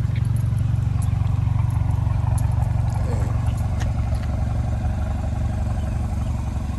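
Ford Mustang engine idling steadily, heard close to the tailpipe, with its exhaust smoking like a chimney.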